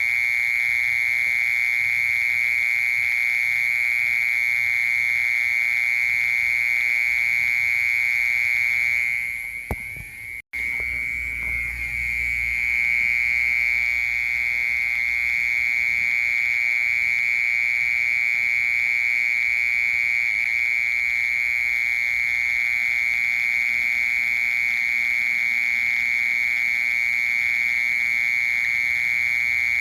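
A cricket singing one steady, unbroken high-pitched trill. It fades briefly about ten seconds in, cuts out for an instant, and resumes.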